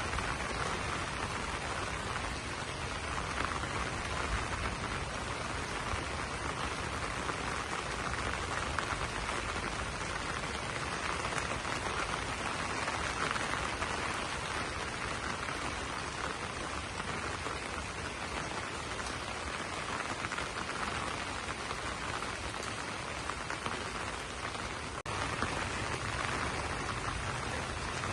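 Steady rain pattering on banana leaves, an even dense hiss with a momentary drop-out near the end.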